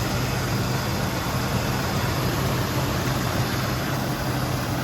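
V8 engine of a 1973 Chevy K20 pickup idling steadily after its first start in about twenty years, running smoothly with hardly any miss.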